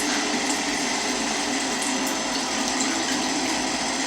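Water running steadily from a tap into a sink, an even rushing.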